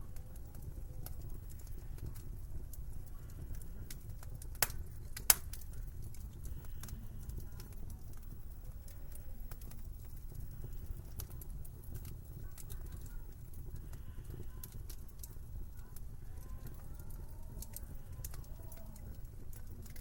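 Wood fire crackling in a fireplace: a steady low rumble with scattered small crackles and two sharp pops about five seconds in, with faint wavering whistles of wind.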